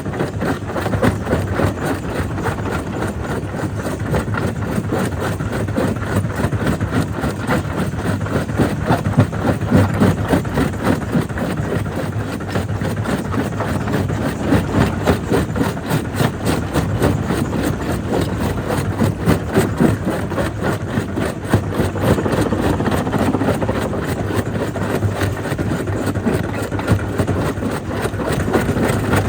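Jaw crusher running and crushing black stone: a dense, continuous run of cracking and knocking over a steady low machine hum.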